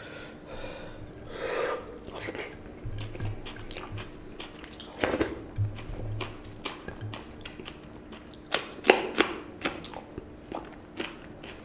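Close-miked mouth sounds of a man eating watered rice (panta bhat) and bhorta with his hand: chewing, with wet smacks and clicks. Wet squishing as his fingers mix the rice in the plate.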